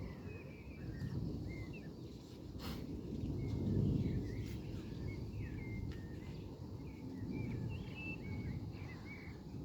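Small birds chirping and calling repeatedly over a low rumbling noise that swells and fades over several seconds, with one short click about a third of the way in.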